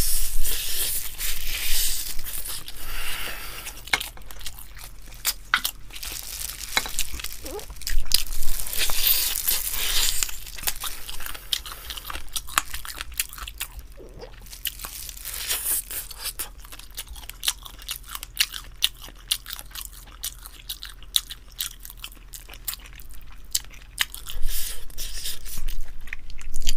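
Close-miked chewing and biting of spicy charcoal-grilled chicken wings: many short crunches and wet clicks, busiest in the first ten seconds and again near the end.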